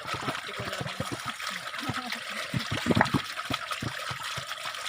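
Water spurting and gurgling in quick, irregular splashes, with a brief louder gush about three seconds in.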